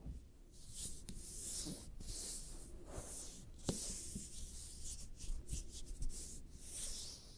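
Skin rubbing and scratching directly on a binaural microphone's ears: irregular, hissy scraping strokes with a few sharp clicks.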